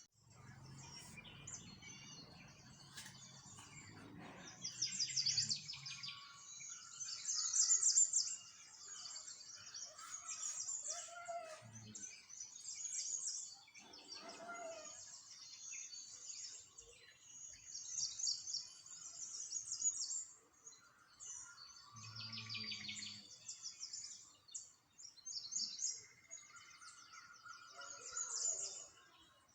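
Small songbirds chirping and singing, phrase after phrase of rapid high trills every second or two, with softer lower chirps between them.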